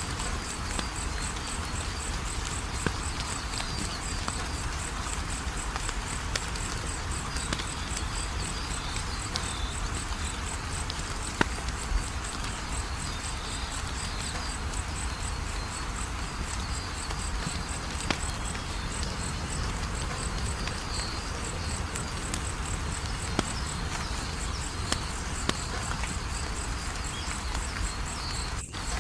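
Wood fire crackling, with a soft hiss and scattered sharp pops. A cricket chirps at an even, steady rhythm behind it. The sound cuts out briefly near the end.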